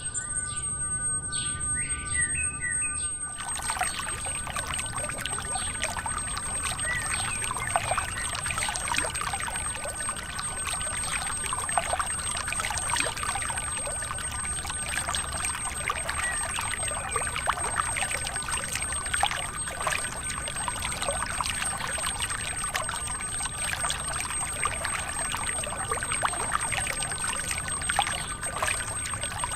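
Water pouring and splashing steadily from a miniature model water pump. It starts about three seconds in, over faint steady high tones.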